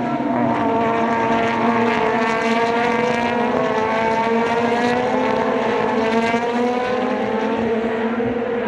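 Super GT race car engine running loud and continuous. Its pitch sags slightly, then climbs slowly over several seconds.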